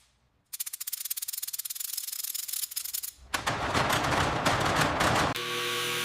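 Rapid rubbing strokes, like a brush or abrasive scrubbing a small metal part. About three seconds in they give way to roughly two seconds of loud rushing noise, then a small motor's steady whine, like a rotary tool.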